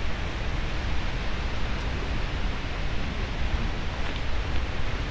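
Steady rushing of ocean surf and wind, with a heavy low rumble underneath and no distinct events.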